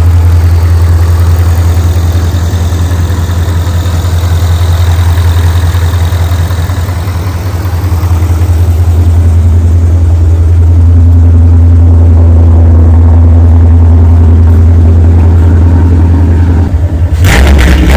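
A 2016 Mustang GT's 5.0 L V8 idling steadily through headers, an X-pipe and Roush mufflers, freshly put back together and running smoothly. A few sharp noises break in near the end.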